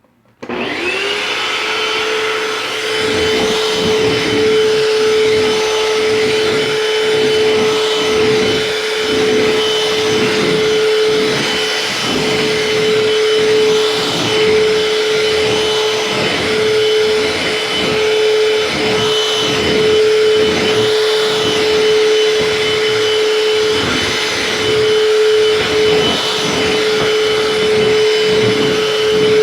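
Eureka Superlite vacuum cleaner switched on about half a second in, its motor spinning up to a steady high whine, then running continuously with a low sound that swells and fades about once a second as it is pushed back and forth over the floor.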